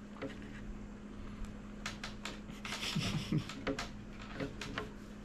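Quiet eating sounds: faint chewing with a few light clicks, loudest about three seconds in.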